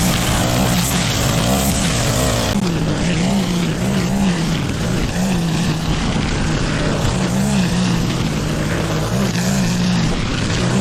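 Petrol lawn mower engine running steadily under load, its pitch wavering up and down every second or so.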